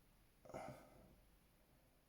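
Near silence: room tone, with one faint short sound about half a second in.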